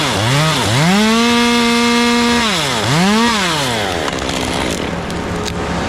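Chainsaw revving: two quick throttle blips, then held at full speed for about a second and a half, released, blipped once more, and let fall back to a low speed.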